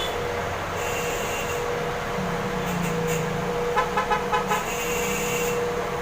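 A bus engine running steadily, with a quick series of about five short horn toots about two-thirds of the way through. Two brief hisses come near the start and near the end.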